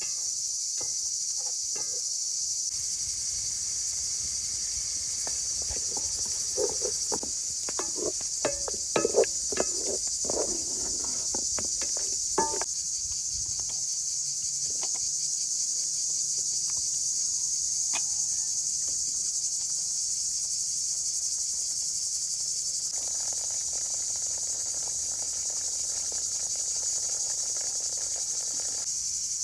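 Steady insect chorus of crickets chirring, high-pitched and unbroken. In the middle a cluster of sharp knocks and clatter stands out as the loudest sound, then fades back to scattered faint clicks.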